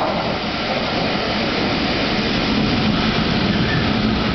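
Train running into a station platform, a steady loud rumble and rush of its wheels and engine.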